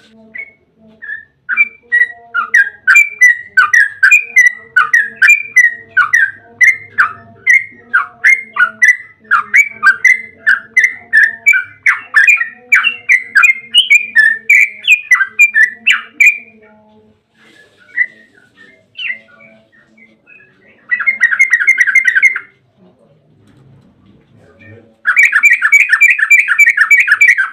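Yellow-vented bulbul (trucukan) singing a long, fast 'ropel' run of loud bubbling notes, about three a second, for some fifteen seconds. After a few scattered notes it gives two short rapid trills near the end.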